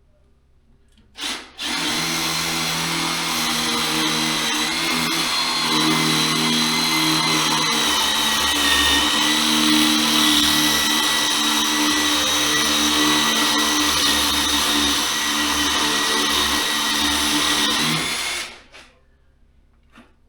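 Electric power tool motor, drill-like, with a short blip about a second in, then running steadily with a high whine for about sixteen seconds before winding down.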